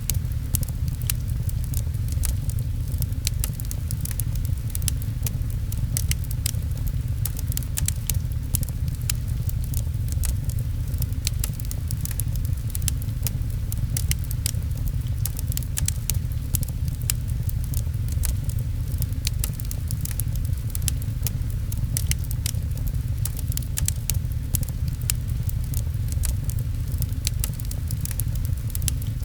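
Fireplace fire crackling with many sharp, irregular pops over a steady low rumble, mixed with rain pattering.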